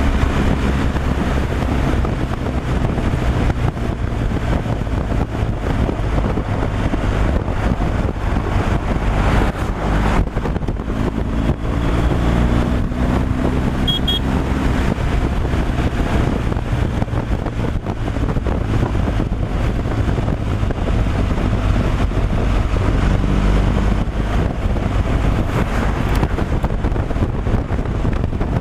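A vehicle running at highway speed: a steady low engine drone with road and wind noise.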